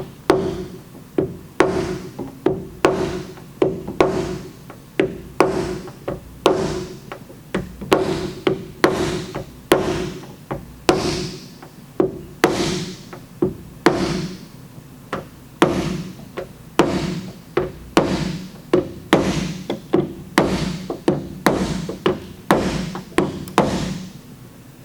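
Body hammer striking a red crown slapper against the steel skin of a Toyota RAV4 liftgate, in a steady run of about two blows a second. The blows tap down a tight crown while a K-beam holds tension on a glued pull tab, easing the tension in the dent.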